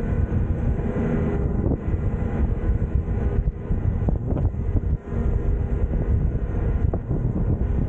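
Passenger train running: a steady low rumble with scattered short clicks and knocks.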